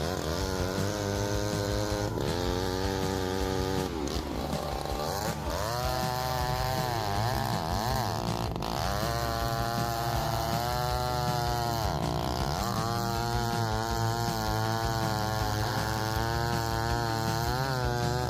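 Large McCulloch 797 two-stroke chainsaw running at high revs while cutting a log. Its engine pitch sags and recovers several times as the chain bites into the wood.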